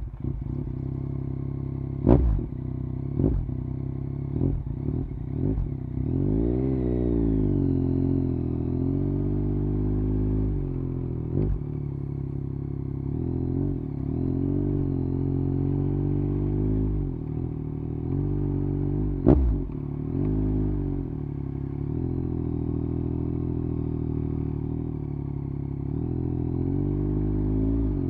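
2021 Yamaha MT-09 SP's three-cylinder engine through a de-baffled Akrapovič exhaust, running under riding load. The pitch rises and falls with the revs. A few sharp loud cracks come about two and three seconds in, and again around eleven and nineteen seconds.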